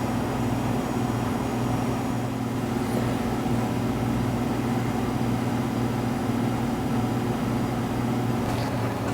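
Steady low machine hum, even and unchanging throughout.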